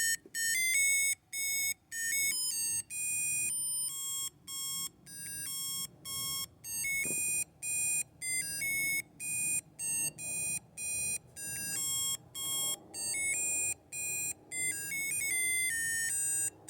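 The electronic sound chip of a McDonald's 2002 Robo-Chi Robo-Baby toy playing its little tune of beeping notes after its nose is pressed: a string of short tones at changing pitches with short gaps between them, which stops just before the end. The working tune shows the toy running again on fresh batteries.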